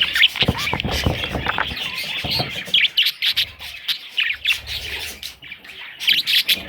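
Budgerigars chirping and chattering in many quick, short chirps, with a few low knocks in the first two seconds.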